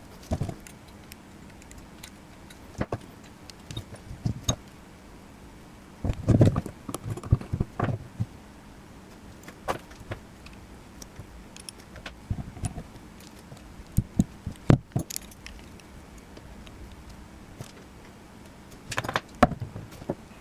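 Small metal construction-kit parts (strips, nuts and bolts) clinking and rattling as they are handled during assembly, in scattered sharp clicks and short clattering bursts, busiest about six to eight seconds in and again near the end.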